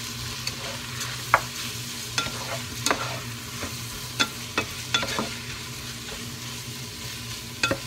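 Rice and vegetables sizzling as they fry in a pot, stirred with a wooden spatula that knocks and scrapes against the pot with irregular sharp clicks over a steady hiss.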